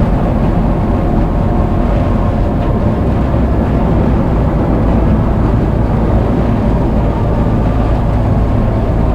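Cessna 172's piston engine and propeller running steadily, heard inside the cabin as the plane taxis to turn around on the runway.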